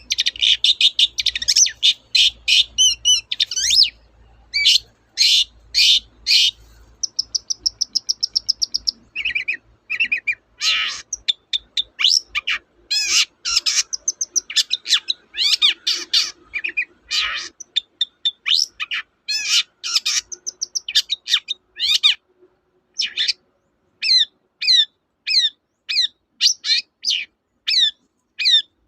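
Long-tailed shrike (cendet) singing a loud, varied song of rapid sharp notes, with a buzzing trill about eight seconds in and, near the end, a run of repeated down-slurred notes about two a second.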